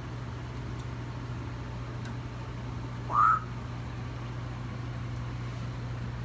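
African grey parrot giving one short, rising squawk about three seconds in, over a steady low hum.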